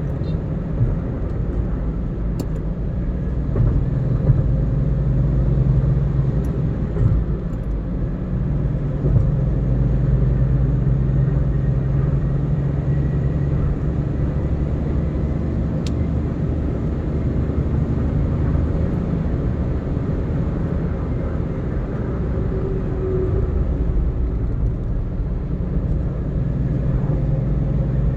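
Steady low drone of car road and engine noise heard from inside the cabin while driving.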